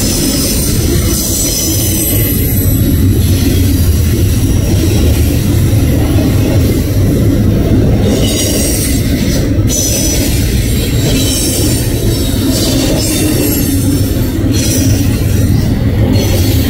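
Norfolk Southern double-stack intermodal freight train rolling past, loud and steady: a continuous low rumble of wheels on rail, with high-pitched wheel squeal coming and going every few seconds.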